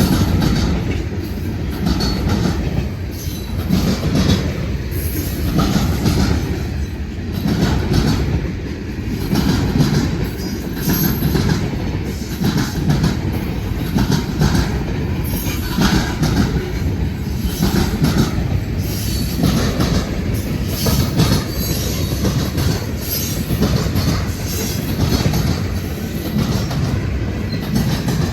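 Freight train cars rolling past close by, their wheels clattering in a steady rhythm over the rail joints.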